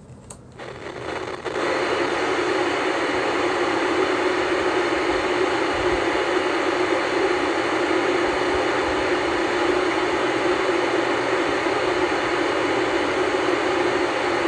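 Static hiss from an old black-and-white tube TV showing no signal. The hiss swells up over about the first second and a half, then holds loud and steady.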